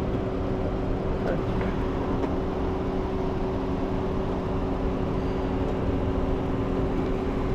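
A vehicle engine idling steadily: a constant hum with a low rumble underneath, broken only by a few faint clicks.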